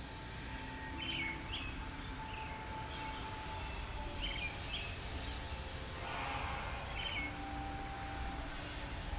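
Outdoor ambience: a bird repeats a short double chirp about every three seconds over a steady low city rumble and a high hiss.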